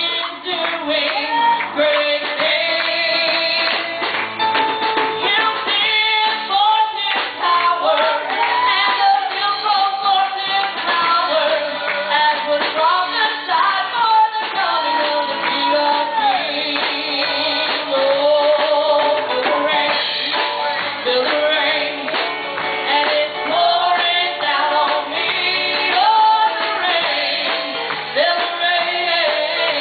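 Gospel song: a woman singing a melody over band accompaniment with a steady beat.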